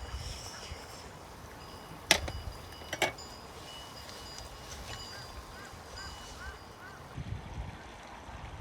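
Two sharp knocks about a second apart, over outdoor background noise with faint bird calls.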